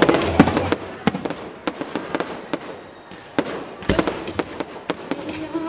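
Aerial fireworks shells bursting and crackling in a rapid, irregular string of sharp bangs, with one heavy boom about four seconds in.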